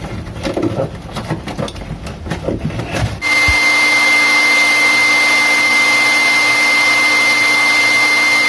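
Light handling knocks and clicks, then, about three seconds in, a handheld electric blower switches on and runs steadily with a loud rush of air and a high steady whine.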